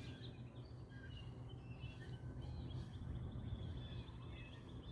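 Faint small-bird chirps, many short calls scattered throughout, over a steady low rumble of background noise.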